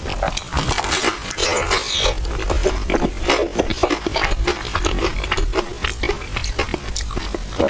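Close-miked eating: chewing on soft, chewy purple rice in milk tea, with a dense, continuous run of small mouth clicks.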